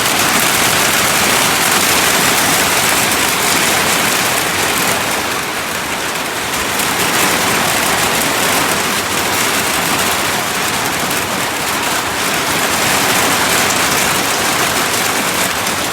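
Heavy rain pouring down and drumming on surfaces, a steady dense hiss.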